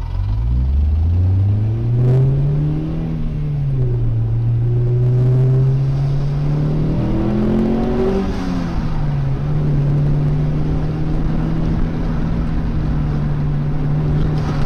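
Car engine accelerating through the gears, heard from inside the car: its pitch climbs for about three seconds and drops at a gear change. It climbs again around seven to eight seconds in, drops at the next shift, then holds steady at cruising speed.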